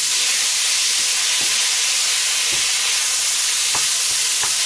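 Minced lamb sizzling in a hot frying pan on a bed of fried onion, garlic and ginger paste, stirred with a spatula to break up the clumps, with a few light scrapes and taps of the spatula on the pan.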